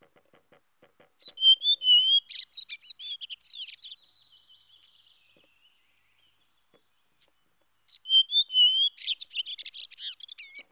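Songbird chirping: a rapid warbling phrase of about three seconds, sung twice with a few quiet seconds between, the second time nearly the same as the first.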